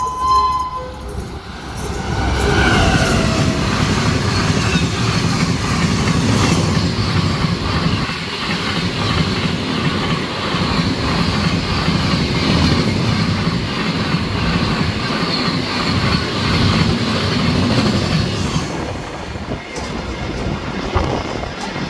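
A train running past on the rails, its wheels clattering steadily. The tail of a horn blast cuts off at the very start. The clatter eases off somewhat near the end.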